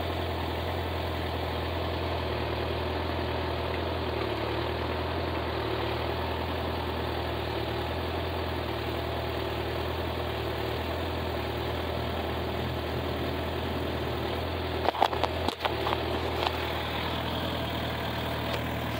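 Car engine idling steadily, with a few sharp knocks from the phone being handled about fifteen seconds in.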